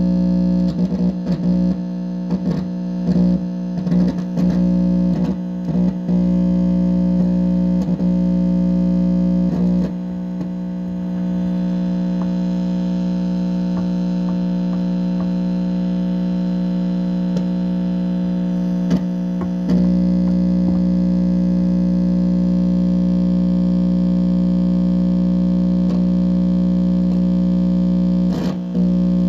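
Steady electrical buzzing hum through an amplifier speaker, broken by crackles and pops in the first ten seconds and again about 19 and 28 seconds in. The owner takes this signal for directed-energy attacks coming from a neighbour's house.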